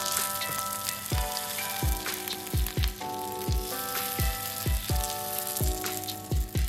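Rice-paper-coated seaweed sheets frying in shallow oil in a pan, a steady sizzle. Background music with held notes and a steady drum beat plays over it.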